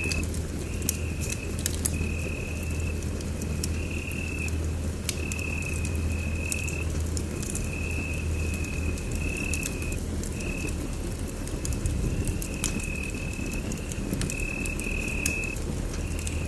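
Wood fire crackling in a fireplace: scattered sharp pops over a steady low rumble. A high-pitched trill comes and goes in short spells about every second.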